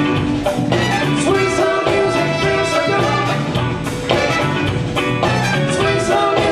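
Live band playing an up-tempo number, many instruments together over a steady beat.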